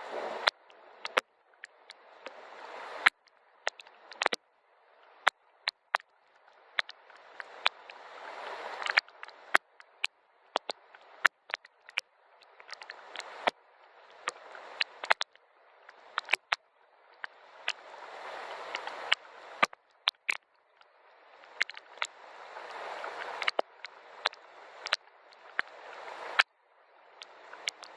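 Rain, with sharp drops tapping one by one over a hiss of running water that swells for a few seconds and then cuts off abruptly, again and again.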